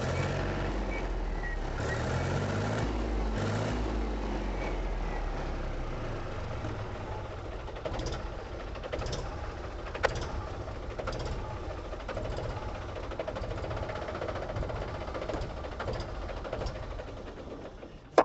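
Mahindra 265 DI tractor's three-cylinder diesel engine running, its speed rising and falling over the first few seconds and then running steadily. A few sharp clicks come about eight to ten seconds in.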